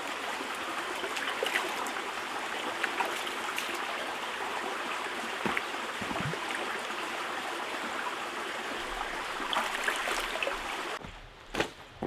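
Steady rain, an even rushing hiss with scattered small drop ticks. About eleven seconds in it cuts off abruptly, and a couple of sharp knocks follow.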